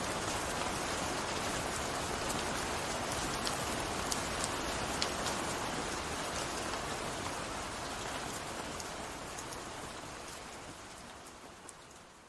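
Gentle steady rain with scattered individual drops ticking sharply, fading out over the last few seconds.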